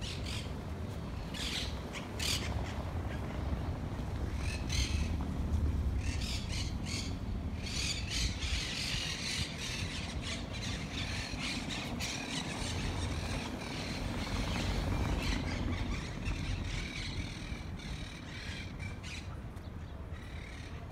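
Birds in the trees calling repeatedly with short, harsh calls, thickest around the middle, over a steady low rumble.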